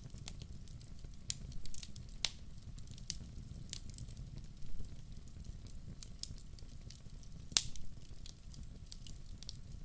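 Wood fire burning in a fireplace: a steady low rumble of the flames with scattered sharp crackles and pops from the logs, one loud pop about three-quarters of the way through.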